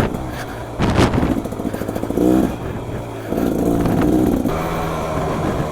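Beta XTrainer 300 two-stroke dirt bike engine being ridden, revving up and easing off several times as the throttle is worked.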